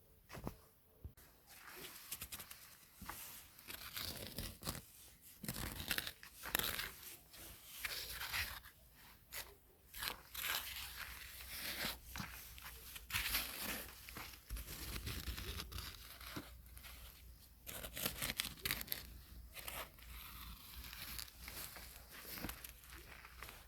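Irregular crunching and tearing, crackly bursts coming one after another with short pauses between them.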